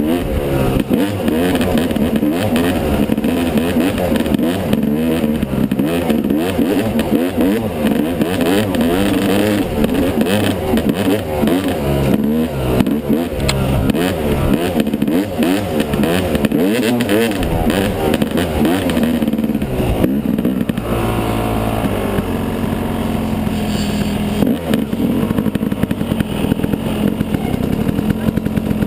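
Yamaha 250 dirt bike engine being ridden, its revs rising and falling constantly through gear changes and throttle blips. About two-thirds of the way through it settles into a steadier, lower drone, with a brief rise in revs.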